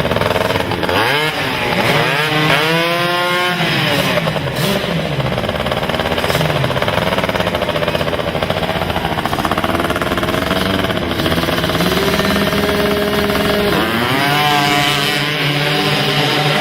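Racing quad (ATV) engines revving hard, pitch climbing and dropping with the throttle, with sharp rising revs about a second in and again near the end.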